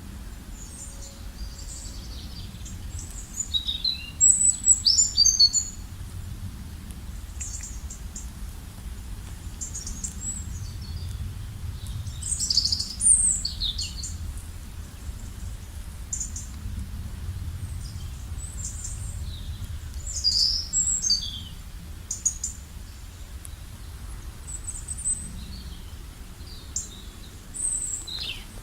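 Songbirds singing, in short chirping and sweeping phrases with louder bursts about four seconds in, around twelve seconds and around twenty seconds, over a steady low background rumble.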